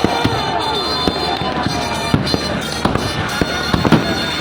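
Fireworks going off: a rapid, irregular string of sharp bangs and crackles, with a few falling whistles in the first second or so.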